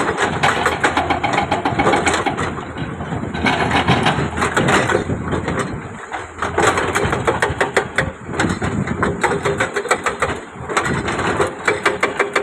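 Diesel engine of heavy construction machinery running, with a rapid clatter over it; the level dips briefly twice, about halfway and near the end.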